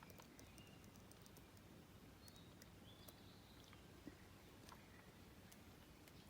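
Near silence: faint outdoor background with a few faint, short high chirps and light clicks.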